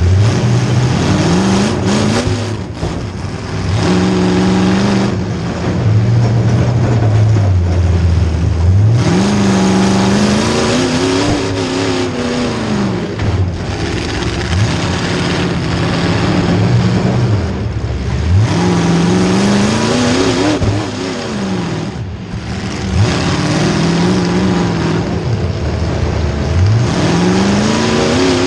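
Demolition derby car's small-block Chevy V8 running loud, revving up and dropping back again and again as the car accelerates in short bursts.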